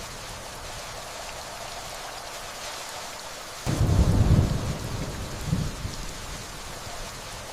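Steady rainfall, with a low rumble of thunder that comes in suddenly about halfway through, is the loudest part, and dies away over a couple of seconds with a smaller second roll.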